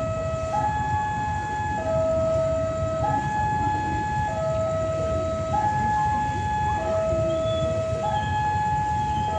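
Two-tone electronic warning alarm, alternating regularly between a higher and a lower tone about every 1.2 seconds, over a steady low rumble.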